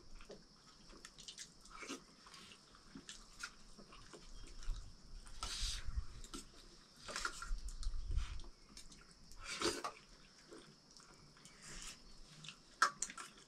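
People eating buckwheat dhido and curry: chewing and small mouth clicks and smacks, with three louder noisy bursts between about 5 and 10 seconds in.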